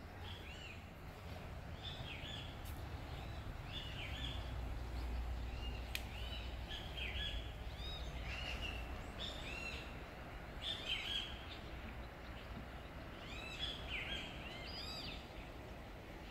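Several birds chirping, short arched chirps repeated and overlapping, busiest in clusters, over a steady low rumble.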